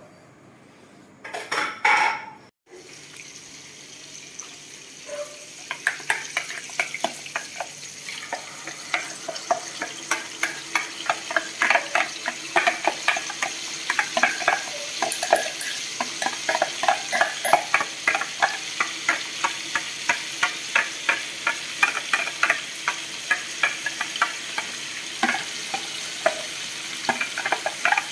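Blended chili paste sizzling and crackling in hot oil in a frying pan, with a spoon scraping and tapping as the paste is spooned in from a blender jar. The sizzle sets in about three seconds in and grows busier, with rapid crackles, from about six seconds in.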